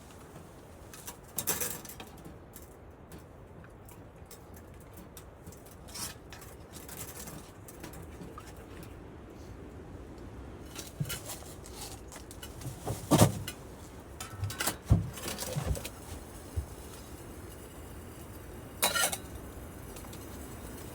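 Wind rushing steadily against the tent, with scattered knocks and clinks of camp cooking gear being handled and a few sharper knocks in the second half.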